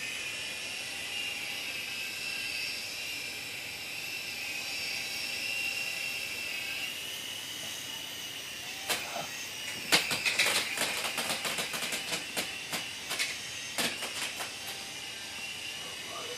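Small electric RC helicopter's motor and rotor with a steady high whine. From about nine seconds in, a quick run of sharp clicks and knocks sounds over it.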